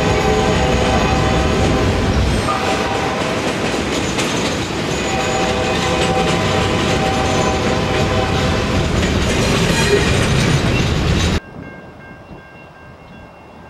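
Freight train cars rolling past close by, a steady rumble and clatter of wheels on rail, with whining tones coming and going. About three-quarters of the way through the sound cuts off suddenly, leaving a much quieter faint background.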